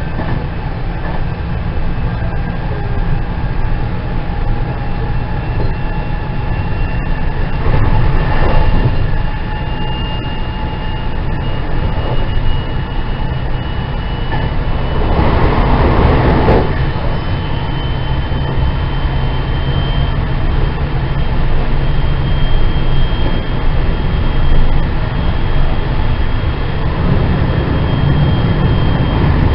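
Running noise aboard a JR West 207 series 2000-subseries electric train car: the wheels rumble on the track while the IGBT VVVF inverter and traction motor whine climbs slowly in pitch. There are two louder rushing bursts, about eight seconds in and again around fifteen seconds in.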